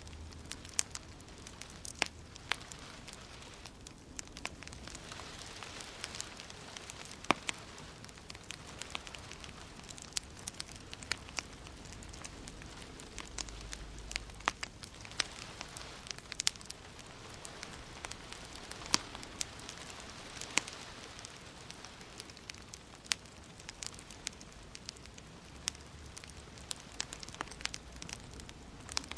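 Wood fire crackling in a fireplace: irregular sharp pops and snaps, several a second at times, over a steady soft hiss.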